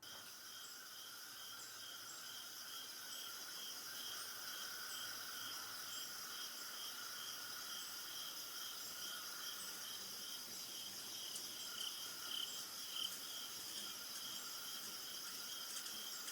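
Insect chorus of crickets: a steady high-pitched trilling, with one regular chirp pulsing about three times a second.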